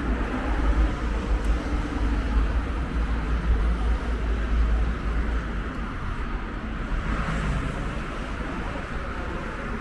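Wind buffeting the microphone with a low, fluttering rumble over the steady noise of city street traffic; the wind eases off after about six seconds.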